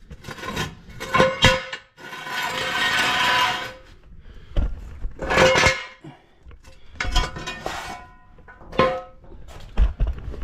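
Metal parts and tools clanking and rattling as they are handled, with short ringing clinks and a longer rattle about two seconds in.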